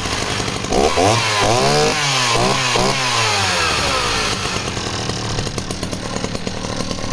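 Dolmar 112 two-stroke chainsaw running, revved up and down several times in quick blips, then dropping back to a steady idle.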